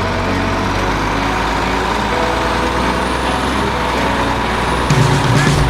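Large 6x6 military truck's engine running steadily at a low, even pitch; about five seconds in a louder, lower sound comes in.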